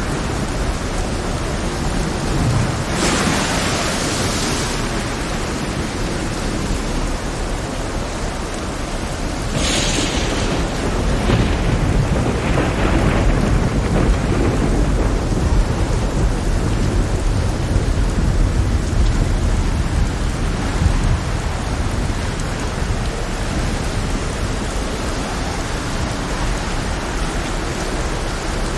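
Heavy rain in a thunderstorm with a steady deep rumble. There are sharp cracks of thunder about three seconds in and again about ten seconds in, the second followed by a few fainter crackles.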